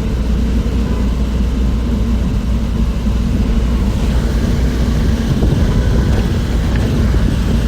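Moving bus heard from inside the cabin: a steady, deep rumble of engine and road noise.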